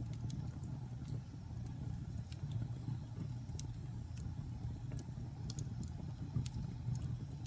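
Wood campfire crackling: irregular sharp pops and snaps from the burning logs, the sharpest about three and a half seconds in, over a steady low rumble.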